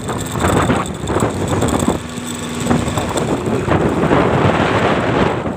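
Heavy wind rushing and buffeting over the microphone while riding a running vehicle through a strong sandstorm, rising and falling in gusts.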